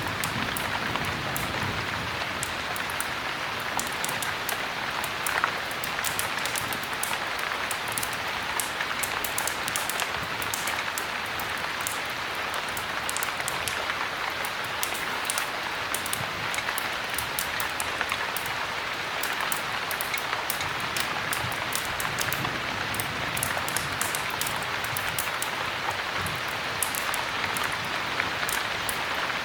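Steady heavy rain, with many small sharp ticks throughout and one louder click about five seconds in.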